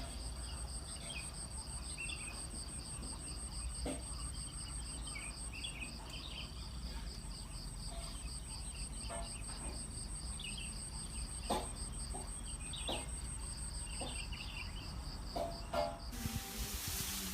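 Insects trilling steadily in a high, finely pulsed drone, with short bird chirps and a few sharp knocks. The trilling stops near the end as a rush of hiss comes in.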